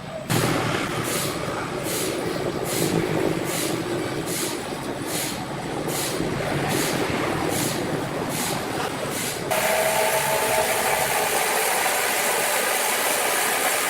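Sawmill machinery running: a loud, rough mechanical din with a regular swish a little more than once a second. About two-thirds of the way in it switches abruptly to a denser hiss with a steady mid-pitched tone.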